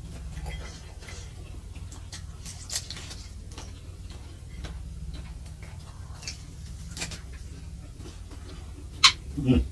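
Close-up mouth sounds of someone chewing tough fried spleen: scattered soft wet clicks and smacks over a low steady hum. A louder sharp smack comes about nine seconds in, followed by a short falling mouth sound.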